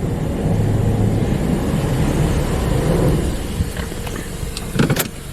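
Old Hydro Spray Classic in-bay automatic car wash machine running, a steady loud hum of its pump and motors. A sharp thump comes near the end.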